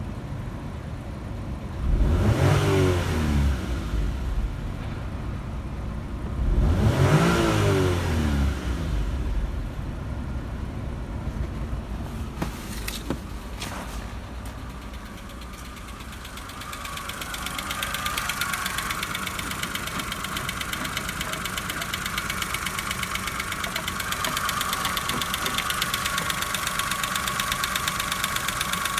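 Chevrolet Matiz 0.8-litre A08S3 three-cylinder petrol engine running. It is revved briefly twice, about 2 and 7 seconds in, then settles to idle. About halfway through, a fast regular ticking grows louder and holds steady.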